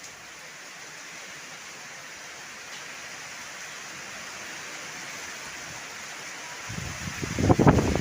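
Heavy rain falling in a steady hiss, growing slightly louder, with a loud low gust of wind rumbling on the microphone near the end.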